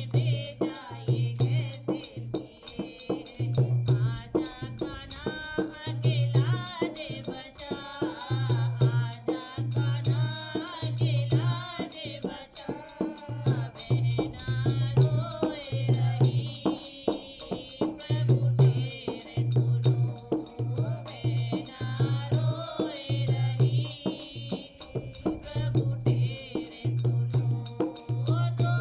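Hindi devotional song music: a melody over a steady low drum beat, with jingling rattle-like percussion keeping time throughout.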